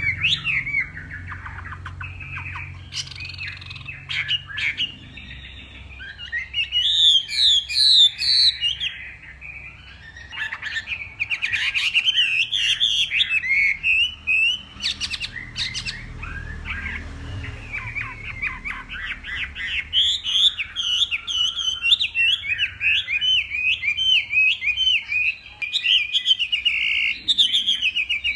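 Chinese hwamei singing a long, varied song of rapid warbling, whistled phrases, broken by a couple of short pauses.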